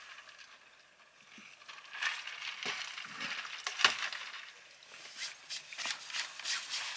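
Eating sounds: irregular crunches, clicks and rustles, starting about two seconds in, with no steady tone.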